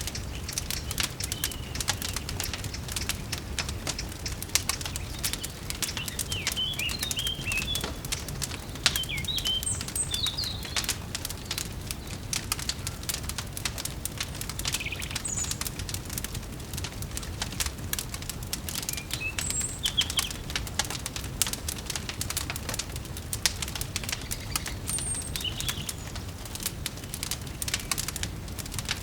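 Fireplace fire crackling with dense, irregular pops over a low rumble, with short songbird chirps scattered through it.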